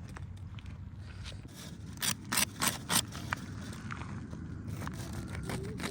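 Four quick scraping strokes close together, about two seconds in, over a steady low rumble.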